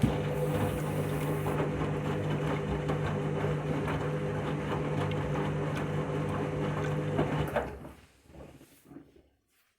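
Washing machine on its spin cycle: a steady motor hum with a constant rattle of small knocks from the drum. About seven and a half seconds in it cuts out and dies away over a second or so with a few last knocks.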